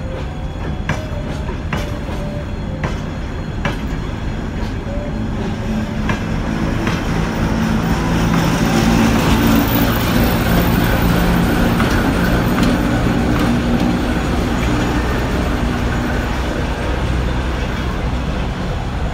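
Freight wagons rolling slowly past, their wheels knocking over rail joints about once a second, then the ChME3T shunting diesel locomotive's engine running close by. The engine is loudest about ten seconds in as the locomotive passes.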